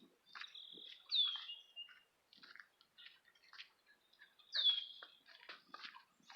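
A bird calling outdoors: a high, clear note slurring downward, given twice about three and a half seconds apart, with fainter short chirps and ticks in between.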